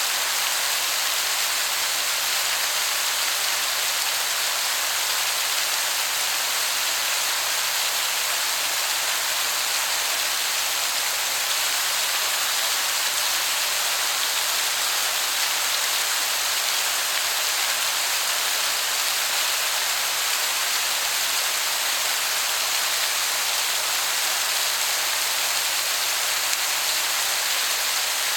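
Waterfall rushing steadily: a dense, even hiss that sounds like heavy rain.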